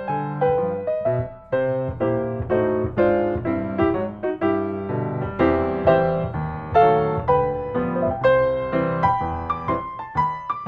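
Background piano music: a gentle melody of struck notes, each fading away, over lower chords.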